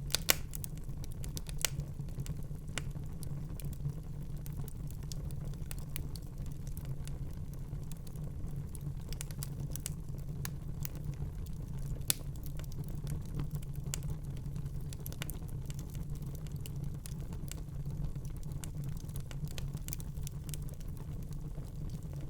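Fireplace fire crackling: irregular sharp pops and snaps over a steady low rumble, with a couple of louder snaps right at the start and one near the middle.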